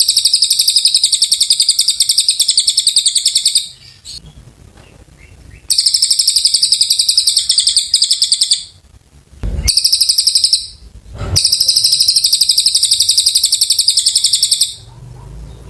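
Cililin bird singing in fast, high-pitched trills of rapidly repeated notes, delivered in four bouts: three of about three seconds and one short burst, with brief pauses between. A dull thump falls in one of the pauses.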